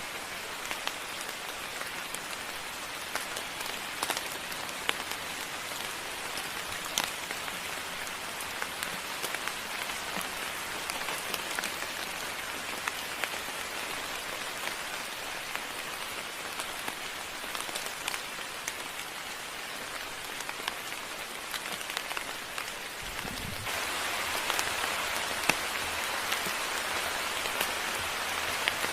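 Steady moderate rain falling, with individual drops tapping sharply throughout; it grows a little louder about three quarters of the way through.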